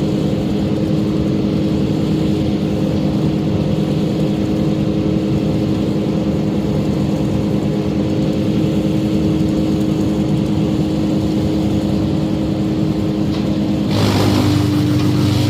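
A heavy engine running steadily at an even speed. Near the end it gets a little louder, with a brief rush of noise and a deeper tone joining in.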